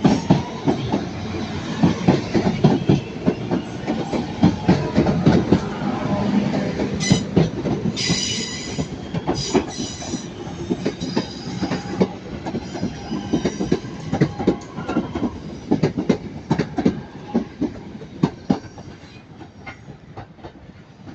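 A train's wheels rolling over rail joints and pointwork, clattering with many sharp clacks. Several short, high-pitched wheel squeals come about a third of the way to halfway in, and the sound fades towards the end as the train moves away.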